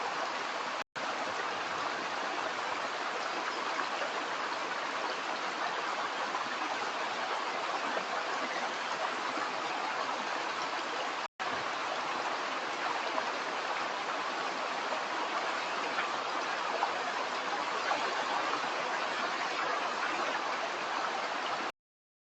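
Stream water running steadily over rocks, with two brief dropouts in the sound and a sudden cut-off near the end.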